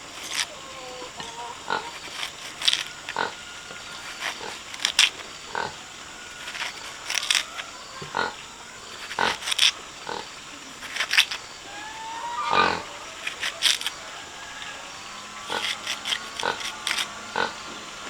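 Pigs grunting and giving short squeals in irregular, quick calls, with a longer rising squeal about twelve seconds in.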